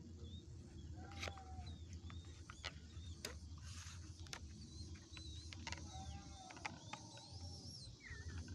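Sooty-headed bulbul (kutilang) calling: short whistled notes and chirps with sharp clicks between them, over a steady low hum.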